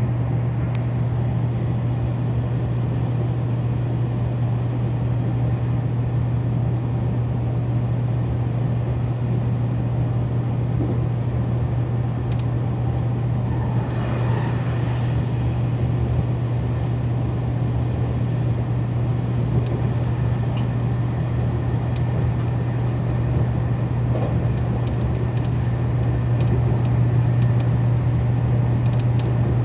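Electric local commuter train running along the line, heard from inside the front car: a steady low hum over the constant rumble of the wheels on the rails.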